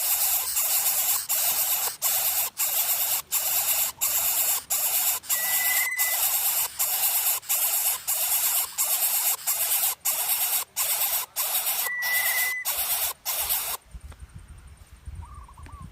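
Greater coucal nestlings hissing in a rapid run of loud, harsh pulses, two or three a second, which stop abruptly near the end. A short, thin whistle sounds about every six seconds.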